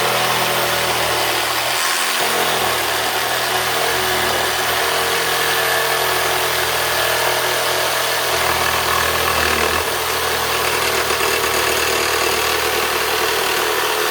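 Jigsaw with a heavy blade running steadily as it cuts through a wooden block.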